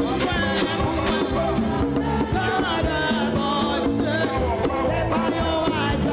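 Upbeat live band music with a steady drum beat, bass and a wavering melody line that sounds like singing, in a Latin-style groove.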